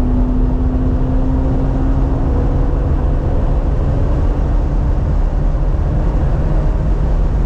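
Interior sound of a 2018 BMW M3 Competition's twin-turbo inline-six under acceleration on track, its engine note rising slowly for the first few seconds and then sinking into heavy road and wind rumble.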